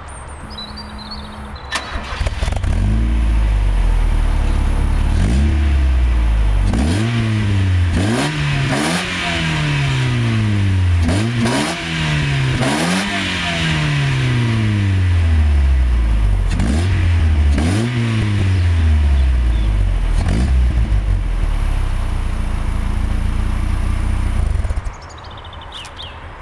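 Ford Fiesta XR2i 16V's 1.8-litre four-cylinder engine, breathing through a K&N air filter and a Bastuck exhaust, starts about two seconds in and idles. It is then blipped again and again, each rev rising sharply and falling back slowly, before settling to idle and cutting off near the end.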